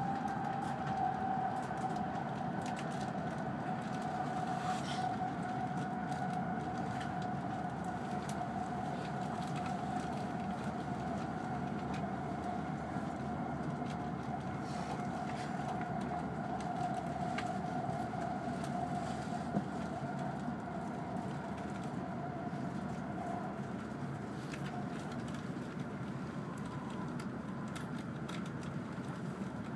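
Cabin noise of an E5 series Shinkansen running: a steady rumble under a high whine that slowly falls in pitch and fades out near the end, as the train slows for its stop.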